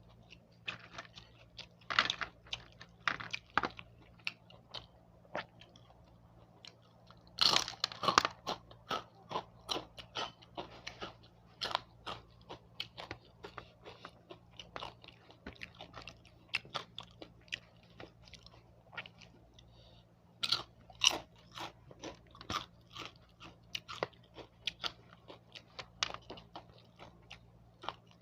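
A person chewing and crunching crisp food close to the microphone: irregular crackly bites and chews, with the loudest runs of crunching about two seconds in, around eight seconds in and again past twenty seconds. A faint steady low hum sits underneath.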